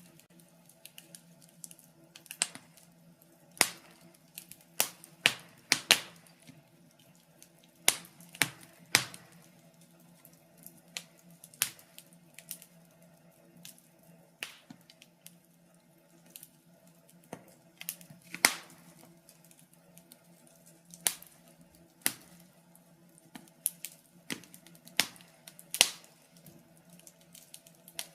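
Wood fire crackling: irregular sharp pops and snaps, a few much louder than the rest, over a faint steady hum.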